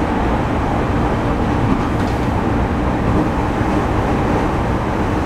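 Steady running noise inside a Sotetsu 10000 series electric train car, which has Mitsubishi IGBT-VVVF inverter drive: an even rumble of wheels, rails and traction motors.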